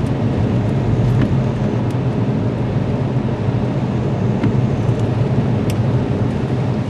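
A car driving in a storm: steady road and engine noise, with a few sharp ticks.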